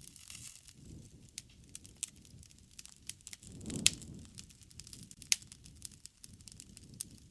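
Wood campfire crackling: irregular sharp pops and snaps over a low rushing of flame that swells about halfway through, with one loud pop at its height.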